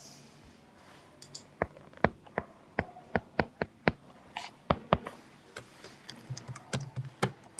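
Keys being tapped one after another, about three sharp clicks a second, as a calculation (0.24 × 3) is typed in on a keyboard or calculator.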